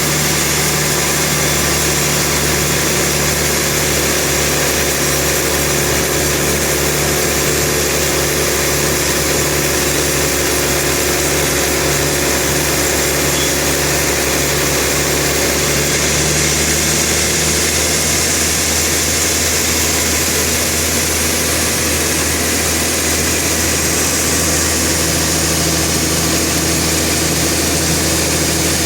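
Sawmill machinery running steadily, a constant engine-like drone with no change in pitch or loudness.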